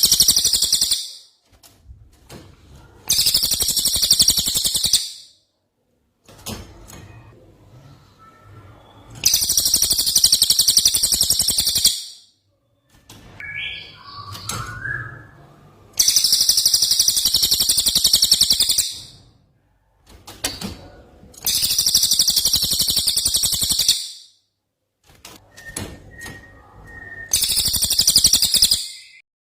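Green leafbird (cucak ijo) singing sharp, rapid 'tembakan' trills copied from the cililin: six loud high-pitched rattling bursts of two to three seconds each, with softer chirps and a short thin whistle in the gaps.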